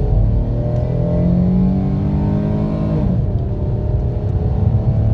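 Dodge Charger engine revving up under hard acceleration, its pitch rising steadily, then dropping sharply about three seconds in as the transmission shifts up, and starting to climb again.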